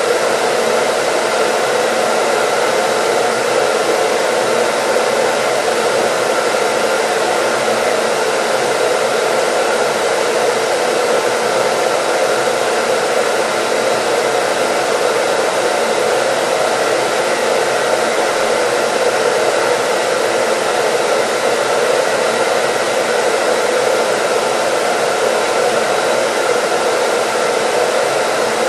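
Hair dryer running steadily as white noise: an even, unbroken blowing hiss with a faint motor hum, no change in speed.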